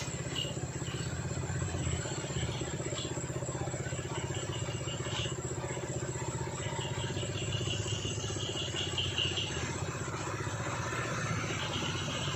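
Diesel truck engine running steadily under load, with a fast even pulse, while a faint high-pitched shrill comes and goes above it.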